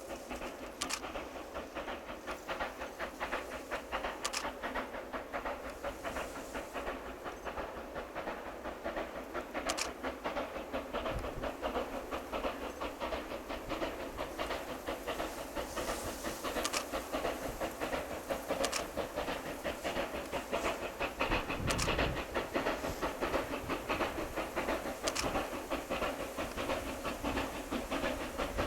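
C2 narrow-gauge 0-8-0 steam locomotive working a train, running with a rapid rhythmic beat over a steady steam hiss and growing slowly louder. A few sharp metallic clanks stand out.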